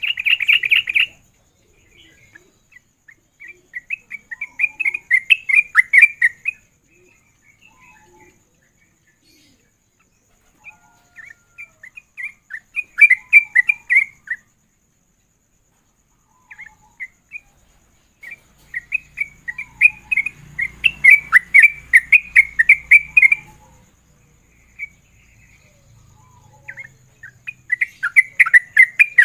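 Sooty-headed bulbul (trucukan) song, provoked by a lure call: bursts of quick, bubbly chattering phrases, one just at the start and four more separated by pauses of a few seconds.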